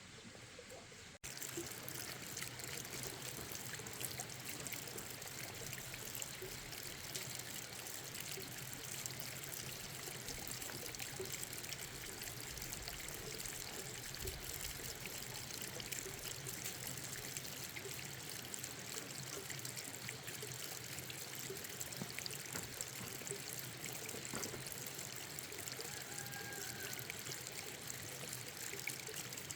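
Steady sound of running, pouring water, starting abruptly about a second in and going on evenly without a break.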